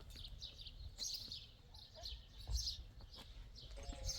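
Small birds chirping in short clusters of high twittering, a few times, over a low steady rumble.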